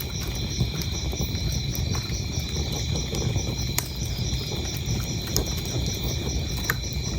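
Wood fire crackling, with sharp scattered pops over a low rumble of the flames, while crickets chirp steadily in a high, even pulsing rhythm.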